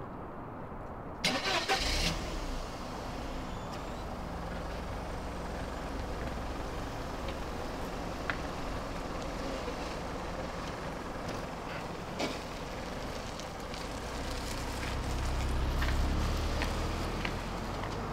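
Mercedes-Benz sedan's engine starting about a second in, then idling steadily, and rising as the car pulls away near the end.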